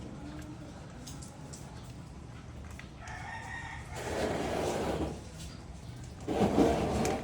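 A rooster crowing: a raspy call starts about three seconds in and swells, and a second, louder call follows near the end.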